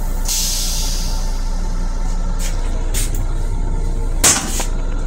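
Steady hum inside an M7 railcar restroom, with short hisses of air or water from the toilet system. The first hiss starts just after the start and lasts about a second, and the loudest comes about four seconds in.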